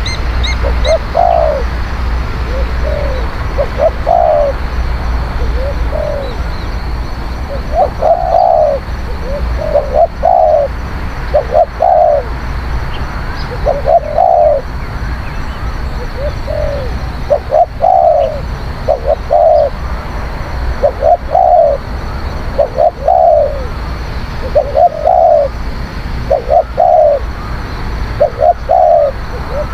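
Spotted dove cooing: short phrases of two or three arched coo notes, repeated every second or two. A steady high hiss runs beneath.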